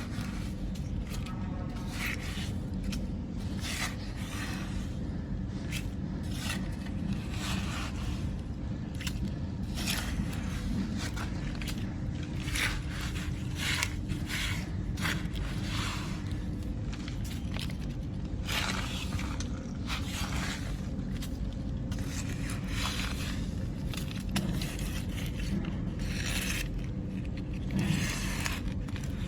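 Small electric motors and gearboxes of radio-controlled construction models running with a steady hum, with many short, irregular scrapes of dirt being dug and pushed.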